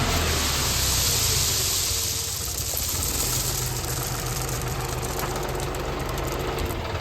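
Tractor diesel engine running steadily, with a high hiss over it in the first two seconds that fades away.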